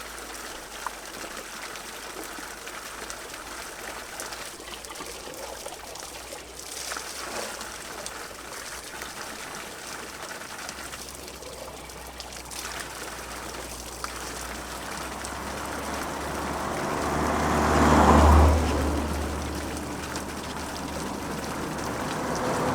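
Water running steadily from a village spring spout, a trickle of the kind used to refill water bottles. Later on, a louder rushing sound with a low rumble swells, peaks and fades.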